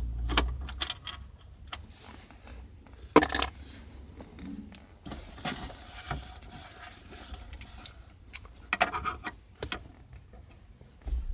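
Scattered clicks and light metallic clinks of a screwdriver and small screws being handled at a car's steering wheel, with one sharper knock about three seconds in.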